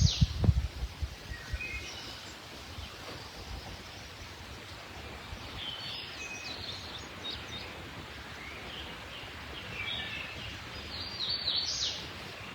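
Wild birds singing, with short chirps and trills coming and going and a livelier burst near the end, over a steady background hiss. A few soft low thumps in the first second.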